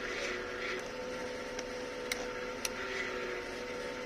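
Lexus LS400's 1UZ-FE 4.0-litre V8 idling just after it has finally started, its non-start cured by a new fuel pump and fixed injector earths. It makes a steady hum with a steady whine on top and a few faint ticks.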